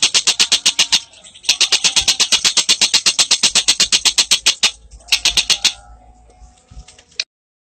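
A bird calls in fast runs of sharp, repeated notes, about nine a second. The runs break briefly about a second in, stop for good with a short last burst past the middle, and the sound cuts off abruptly near the end.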